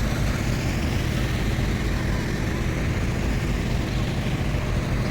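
Steady outdoor rumble with a low-pitched drone and an even hiss over it, holding at one level throughout.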